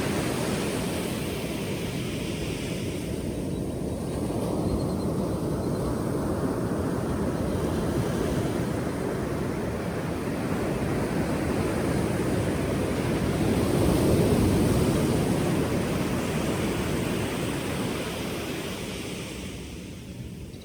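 Ocean surf: waves breaking and washing in as a steady rush. It swells to its loudest about two-thirds of the way through, then ebbs near the end.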